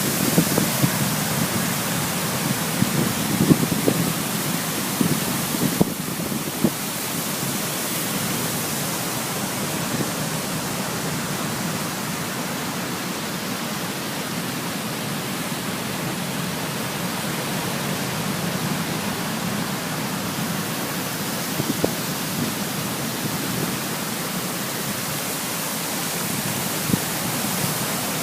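Falling water of a waterfall: a steady, even rushing noise.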